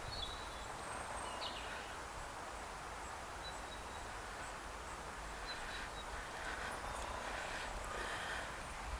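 Outdoor background hiss with a few brief, faint bird chirps and a low rumble underneath.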